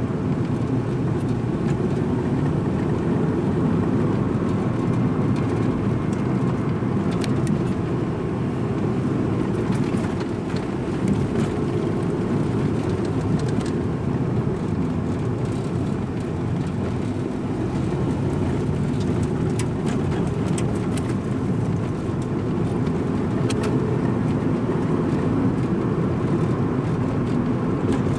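Strong coastal wind buffeting the microphone: a loud, steady low rumble, with scattered faint clicks on top.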